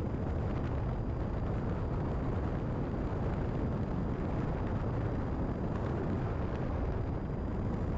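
Steady cabin drone of a Cessna 172RG in flight on final approach: its four-cylinder Lycoming engine and propeller running at reduced approach power, with air rushing over the airframe.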